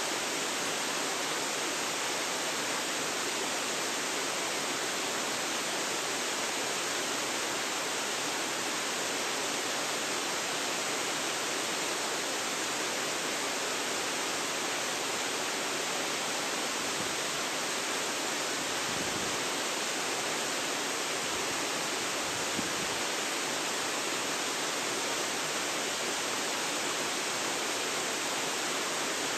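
Waterfall pouring steadily, an even rushing hiss with no change in level.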